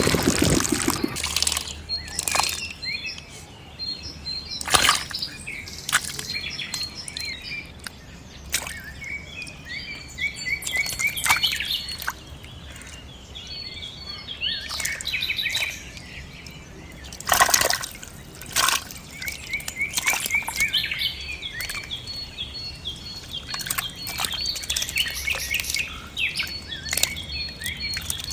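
Birds chirping repeatedly in short calls, with occasional sharp knocks scattered through. Right at the start a small diesel engine cuts out within the first second.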